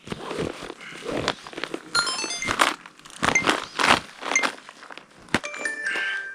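Fishing tackle being rummaged through: lures and hard tackle knocking, clicking and rattling, with a few short metallic rings from the lures clinking.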